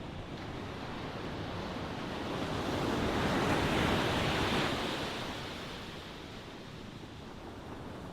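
Ocean waves breaking and washing on the shore. One wave swells up about two seconds in, is loudest around four seconds, and draws back.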